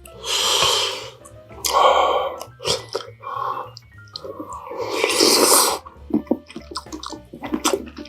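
Close-miked eating sounds: three longer noisy bursts of slurping or biting, the longest about five seconds in, with many small wet chewing clicks between them.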